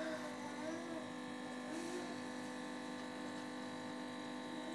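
Keurig K70 coffee maker's water pump humming steadily as it finishes a brew cycle.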